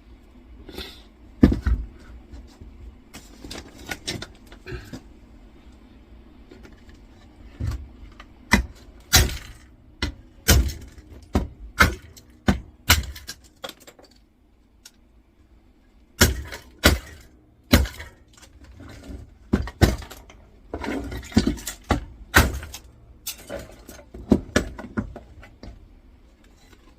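Irregular sharp knocks and clatter from the metal and Bakelite parts of an old electricity meter being taken apart by hand, with a dozen or so loud strikes scattered among quieter rattling.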